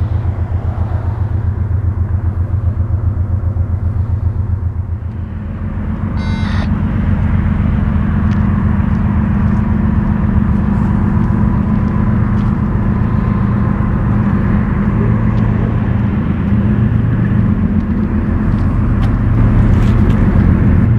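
Freight train passing, its diesel locomotive engines running with a steady low drone and a rapid rhythmic clatter for the first few seconds, then a fuller steady rumble after a brief high squeak about six seconds in.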